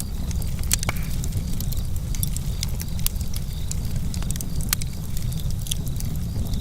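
Campfire burning, with frequent sharp irregular crackles and pops over a steady low rumble of the flames.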